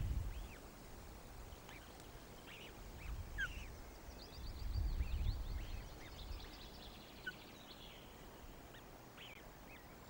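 Faint, scattered high chirps and peeps of birds, with a quick run of faint ticks in the middle and two low rumbles about three and five seconds in.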